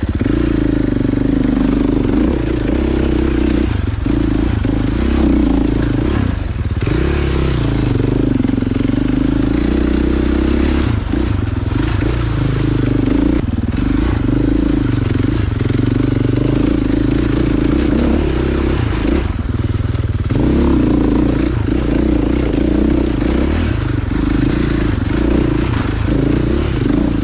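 Dirt bike engine running under way on a rocky trail, its pitch rising and falling with the throttle, easing off briefly about six seconds in and again about twenty seconds in.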